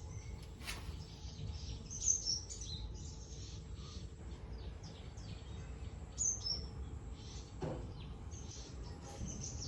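Birds chirping in short high calls, several times over a steady low background noise.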